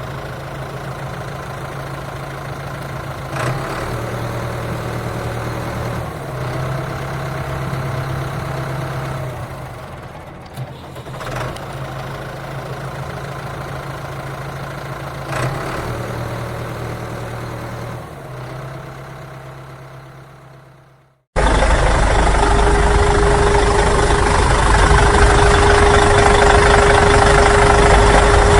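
Engine-like running sound, steady with a low hum and a few clicks. Near the end it cuts off abruptly and is replaced by a louder running sound with a steady whine.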